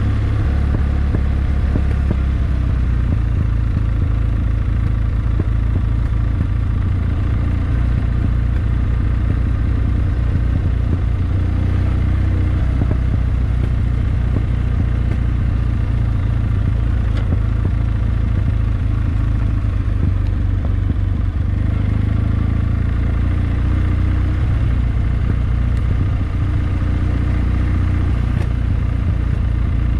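Kawasaki W650's air-cooled parallel-twin engine running steadily as the motorcycle is ridden, its note shifting a little about two-thirds of the way through.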